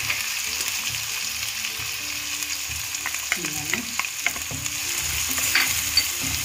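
Chopped onion and tomato sizzling in hot oil in a kadhai on high flame, stirred with a spatula. The spatula scrapes and clicks against the pan over a steady sizzle, with the sharpest clicks about six seconds in.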